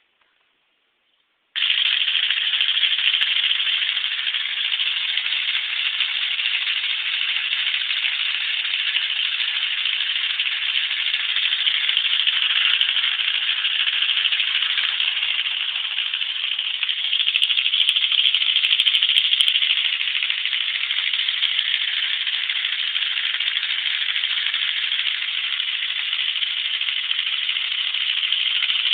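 Lego one-cylinder, two-valve model engine running, its plastic piston, valve and gear parts making a steady dense rattle that starts suddenly about a second and a half in.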